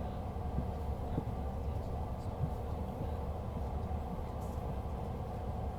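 Steady low rumble and hum inside the cabin of a CRJ-550 regional jet on the ground, with faint passenger chatter.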